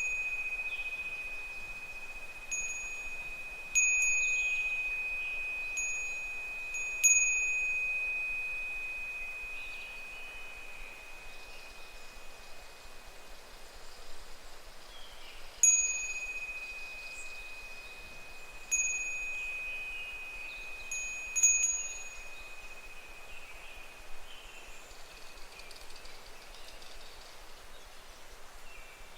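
Japanese wind chime (fūrin) swaying in the wind: light clinks in small clusters, each leaving a clear ringing tone that slowly dies away, with a lull in the middle before another cluster. Faint calls of higurashi (evening cicadas) sound beneath the ringing.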